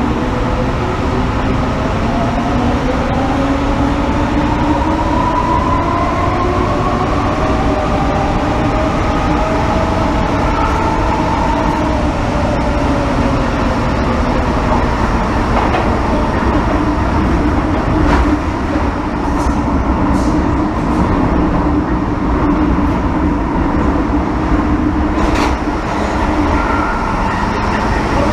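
Inside an MTR M-Train metro car: the traction motors whine, several tones climbing in pitch over about the first ten seconds as the train gathers speed, then settling into a steady hum over the wheel and track rumble. A few sharp clicks come in the second half.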